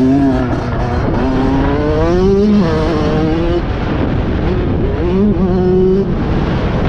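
A motocross bike's engine running hard, its pitch climbing and dropping again and again as the throttle is worked, with two steep rises about two and five seconds in, over a heavy low rumble.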